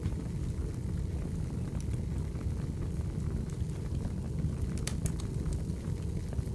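Wood fire burning: a steady low roar with sparse crackles and pops, a few of them close together about five seconds in.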